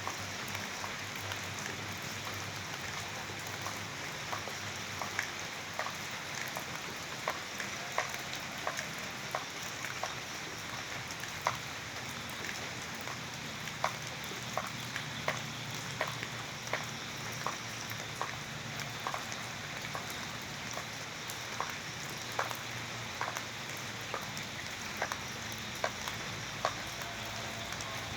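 Steady rain falling on a surface. Single louder drops tick out of the hiss about once or twice a second.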